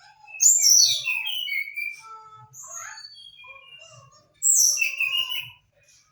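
Trotol songbird song: a rapid, varied string of chirps and sliding whistles, with two louder phrases about half a second and four and a half seconds in. Faint low thumps sound underneath.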